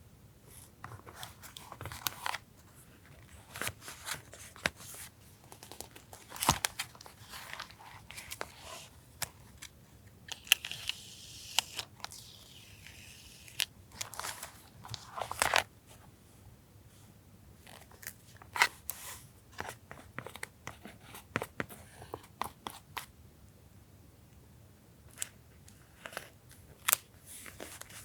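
Paper collage materials handled by hand on a journal page: scattered small taps, rustles and crinkles, with a longer scratchy stretch about ten seconds in.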